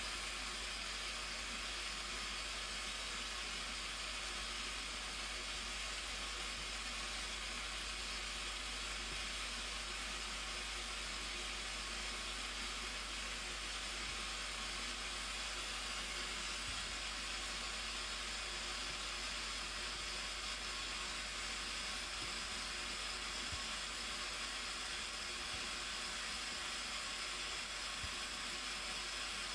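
Steady, even rushing hiss of the Blue Nile Falls waterfall.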